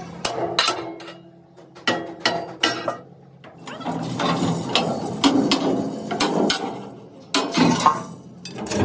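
Workshop metalwork: a few sharp knocks and clicks, then a longer stretch of dense rattling and clattering, and another short burst near the end.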